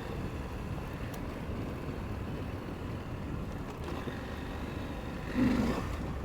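KTM 890 Adventure parallel-twin motorcycle engine running steadily while riding on a dirt road, heard as a low rumble under road and wind noise. There is a brief louder hum about five seconds in.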